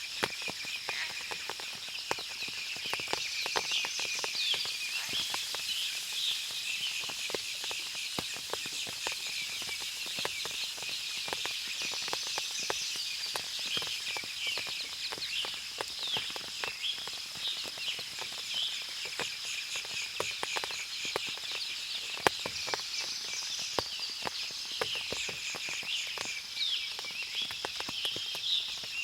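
Forest ambience after rain: many small birds chirping on and off, over a steady high insect drone, with frequent sharp ticks scattered throughout.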